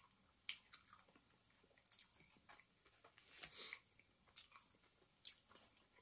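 A person chewing food, faint mouth smacks and clicks, scattered and irregular, with a longer noisy one about three and a half seconds in.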